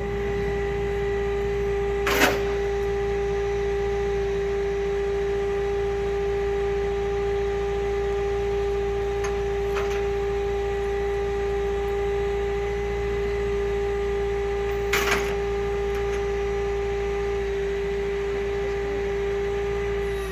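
Car hauler's hydraulic lift running as the deck lowers the car: a steady whine over a low hum, with a sharp click about 2 seconds in and another near the end of the first 15 seconds.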